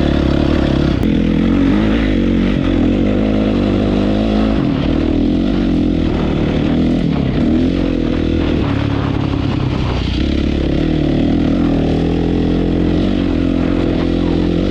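Honda CRF450's single-cylinder four-stroke engine running through a very loud aftermarket HGS exhaust, its pitch rising and falling a little.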